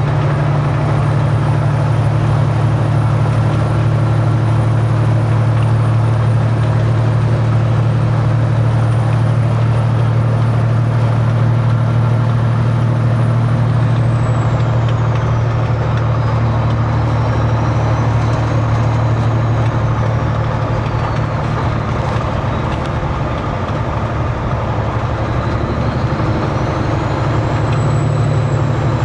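Heavy diesel semi truck engine droning steadily, heard from inside the cab while driving. A faint high whine drops in pitch about halfway through and rises again near the end.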